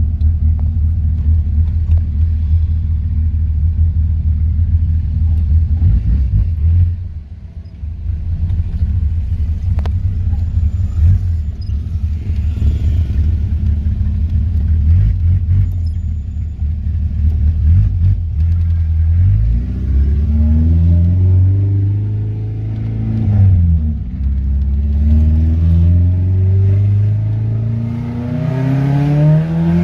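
Carbureted VW AP 2.0 four-cylinder with a 288 camshaft and 4-into-1 header, running at a steady engine speed, loud and rumbling. About two-thirds through it accelerates hard: the pitch climbs, drops sharply for a moment, then climbs again to the end.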